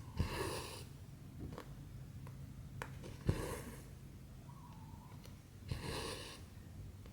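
Cotton embroidery thread pulled through 14-count cross-stitch fabric: three short rasping swishes, with small ticks of the needle against the fabric between them.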